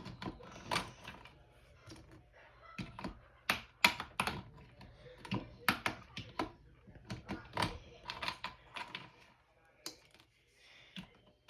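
Irregular sharp plastic clicks and clatter of a computer keyboard being taken apart for cleaning, its keycaps and parts being pried and handled. The clicks thin out near the end.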